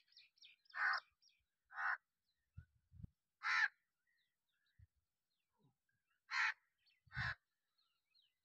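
A bird calling: five short, loud calls spaced one to three seconds apart, with faint high chirping near the start and a few soft low knocks.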